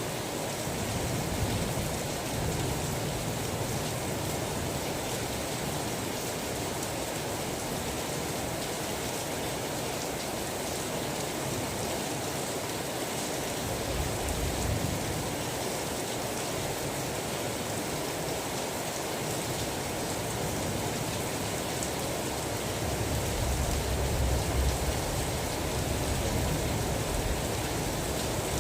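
Steady rain, an even hiss with no breaks. Low rumbles swell in and out three times: about a second in, near the middle, and near the end.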